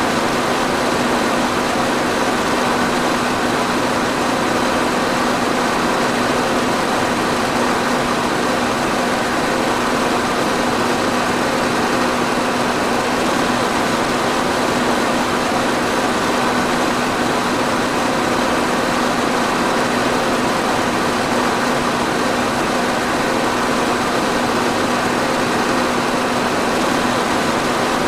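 Electric fan running steadily: an even whoosh of moving air over a constant low motor hum.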